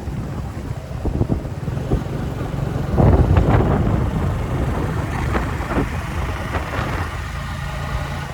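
A motor engine running steadily, with wind buffeting the microphone. The sound grows louder and rougher about three seconds in.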